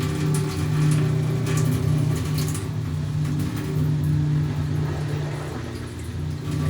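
Panasonic 12 kg top-loading washing machine running mid-cycle: a steady motor hum that swells and eases, with water sloshing against the drum, dipping slightly near the end.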